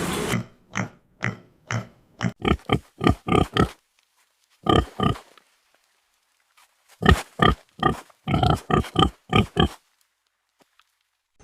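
Pig grunting: runs of short, rapid grunts, about three a second, with a pause of a couple of seconds in the middle.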